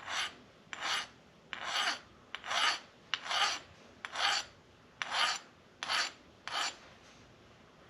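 Fine hand file rasping across the edge of an aluminum base plate in nine short, even strokes, about one a second, knocking off a burr. The strokes stop about a second before the end.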